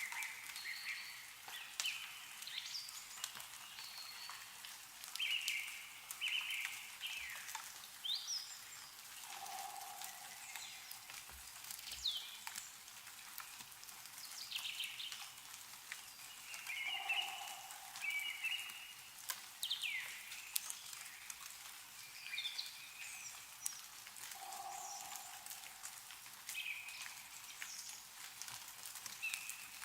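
Meltwater dripping and pattering from snow-covered trees, with several small birds chirping and calling throughout. A short, lower note comes three times, about seven seconds apart.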